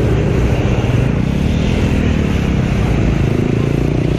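Motorcycle engine running while riding, with heavy wind noise on the microphone; the engine's pitch shifts in the second half.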